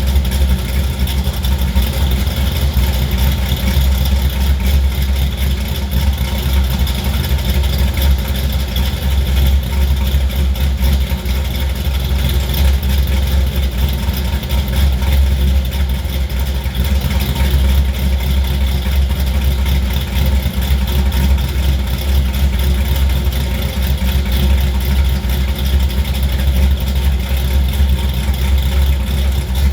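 G-body Chevrolet Monte Carlo engine with a big camshaft, idling steadily with a deep, uneven pulsing exhaust note.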